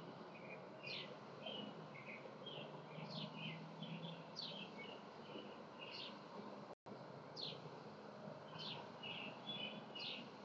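Songbirds calling: a repeated short downward-slurred note about every second and a half, with quicker chirps in between, over a faint steady hum. The sound cuts out for an instant about seven seconds in.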